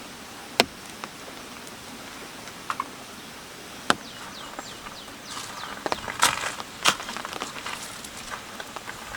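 Sharp single knocks and clicks, then a dense stretch of crackling, rustling handling noise in the second half, like gear or sticks being handled.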